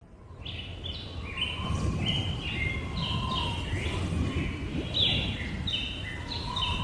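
Birds chirping in short, repeated falling notes over a low, steady rumble of outdoor ambience that fades in over the first second.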